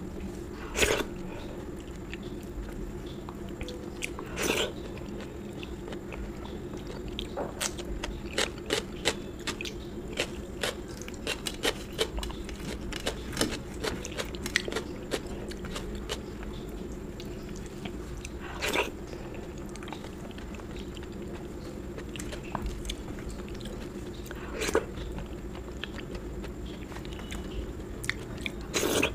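Close-miked chewing and mouth sounds of someone eating: a dense run of small wet clicks through the middle and a handful of louder sharp smacks, over a steady background hum.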